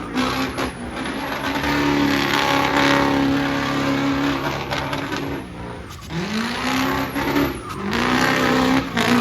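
Truck engine held at high revs with a loud hiss of spinning tyres, as in a burnout; about six seconds in the revs drop, then climb back up twice.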